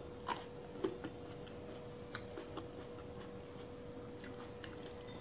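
Chewing a mouthful of fresh fruit, heard as irregular soft wet mouth clicks, over a faint steady hum.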